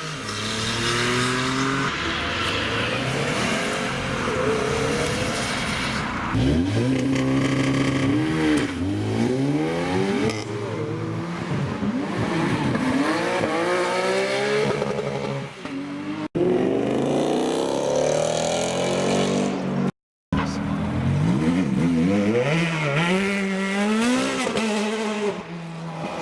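High-performance sports car engines revving and accelerating away, their pitch rising and falling through several rev sweeps. The sound breaks off abruptly twice as one clip cuts to the next.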